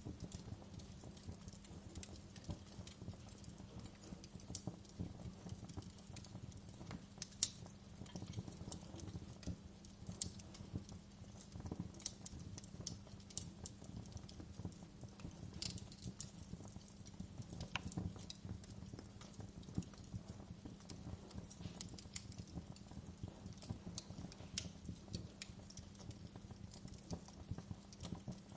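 Wood fire crackling: irregular sharp pops and snaps over a low steady rumble, with one louder pop about seven seconds in.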